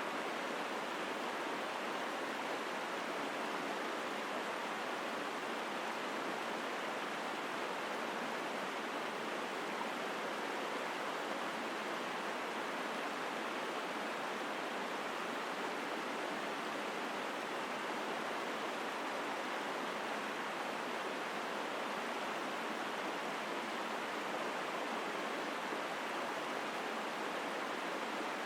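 Forest mountain stream running strongly: a steady, unbroken rushing of water.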